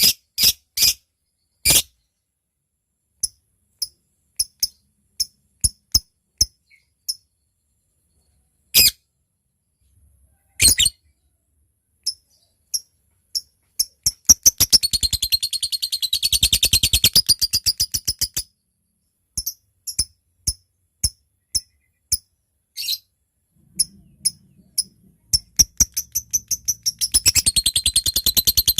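Lovebird calling: sharp single ticking chirps (ngetik) spaced irregularly, which break twice into a long, rapid chattering trill (ngekek panjang), once lasting about four seconds midway and again near the end.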